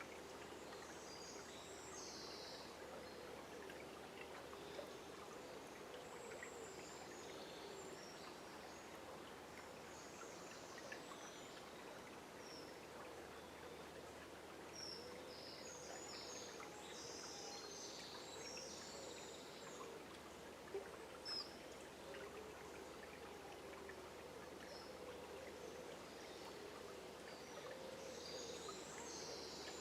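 Forest river flowing with a soft, steady rush of water. Songbirds call in short bursts a couple of seconds in, around the middle and near the end, with two brief clicks a little past two-thirds through.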